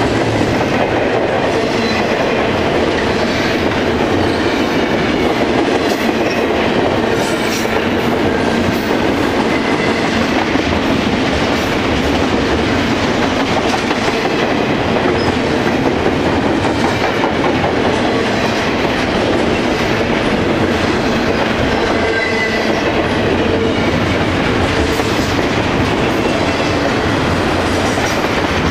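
Freight train cars rolling steadily past at speed, with wheels clattering over the rails in a continuous rumble. These are BNSF double-stack intermodal cars.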